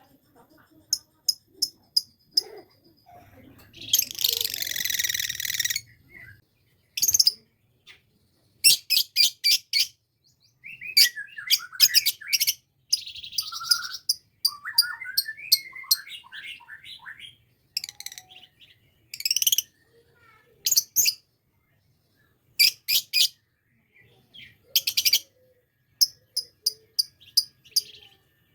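Lovebird chirping in groups of short, sharp, high calls, with a harsh rasping chatter about four seconds in and runs of falling chirps midway: a lovebird practising its ngekek chatter.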